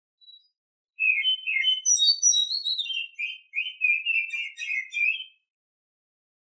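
Female oriental magpie-robin (kacer) singing one varied phrase of quick whistled notes and chirps, about four seconds long: rising high notes in the first half, then a run of lower rapid chirps.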